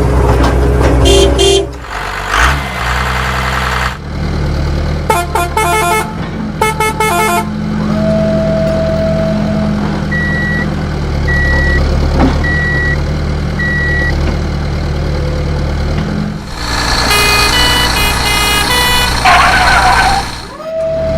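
Truck sound effects: a steady low engine rumble with several horn honks. Partway through come four short, evenly spaced beeps.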